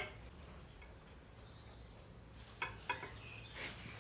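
A few faint metallic ticks of small steel bearing balls being set one by one into a grease-packed steering box bearing race, over a low room hum.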